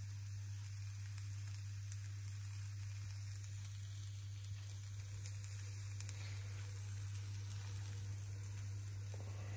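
Chickpeas and vegetables gently sizzling in a frying pan over a low gas flame, a soft even hiss with faint crackles, under a steady low hum.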